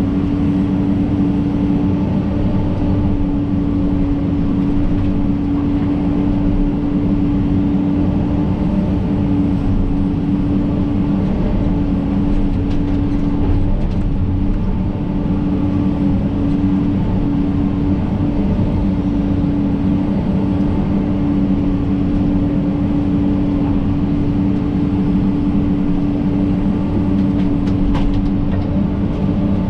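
John Deere 130G excavator's diesel engine running steadily under work, with a constant drone and a short sharp snap near the end.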